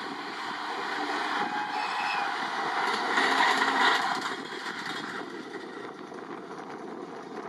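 A 701 series electric local train and an E657 series limited express pass each other on the rails. Their wheels rumble and swell to a peak about three seconds in, then fade as the express runs on.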